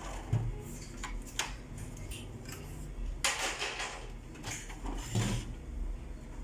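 Scattered clicks, knocks and a short scrape of hard plastic and metal printer parts being handled during disassembly of a laser printer, over a low steady hum.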